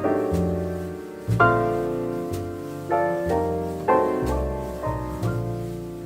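Solo piano music: slow chords struck about once a second or so, each left to ring and fade before the next.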